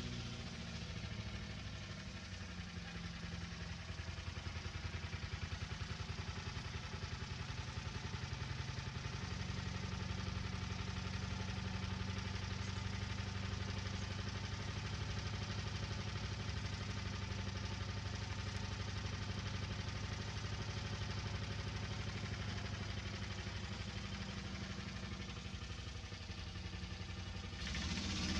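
An engine running steadily with an even, rapid firing pulse and little change in speed. Shortly before the end it cuts abruptly to a different, hissier sound.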